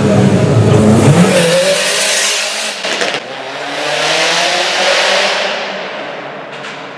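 Performance car engine at full throttle, its pitch climbing as it accelerates hard past. A sharp break follows about three seconds in, then a second loud surge of engine noise that builds and fades away.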